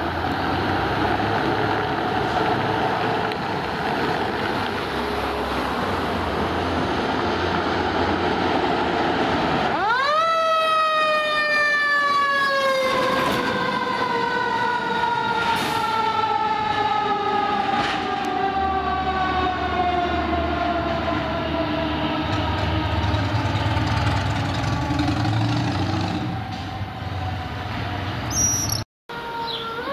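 Fire engine's siren winding up sharply about a third of the way in, then falling slowly in pitch as it winds down, over a steady rumbling noise.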